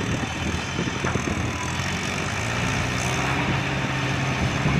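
Tractor engine running steadily, getting a little louder about halfway through.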